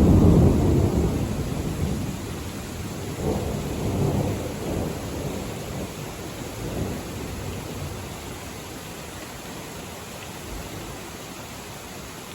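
Thunder rumbling low and fading away over the first couple of seconds, with a few weaker rolls a few seconds later, over the steady hiss of rain.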